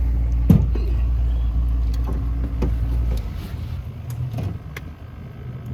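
A boat's motor running at a low idle with a steady low hum, shut off or throttled down about three seconds in. A single sharp knock comes about half a second in.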